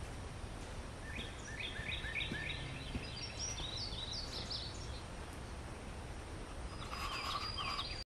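A small bird sings a run of short, downward-slurred whistled notes, about three or four a second, stepping higher in pitch as the run goes on. A second, shorter bout starts near the end. A steady low background rumble runs underneath.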